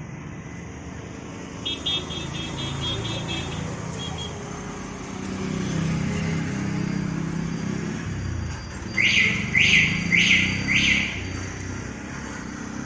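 Low rumble of road traffic that swells as a vehicle passes, with a rapid high trill near the start. About nine seconds in there are four loud, quick chirps, each falling in pitch.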